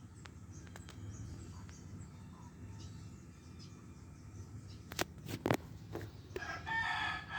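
A few sharp clicks over a low steady background hum, then a rooster crowing near the end.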